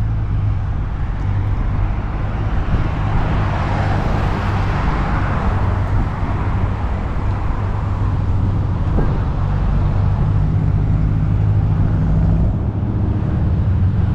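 Car engines idling, a steady low rumble, with a broad rushing noise that swells and fades in the middle; part of the low rumble drops away about twelve seconds in.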